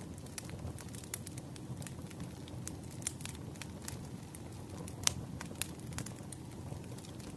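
Crackling wood fire: irregular sharp pops and snaps over a steady low rumble of burning, with one louder pop about five seconds in.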